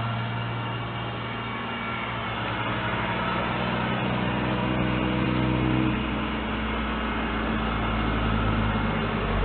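A motor vehicle engine running steadily with a low drone; its pitch lines shift about six seconds in.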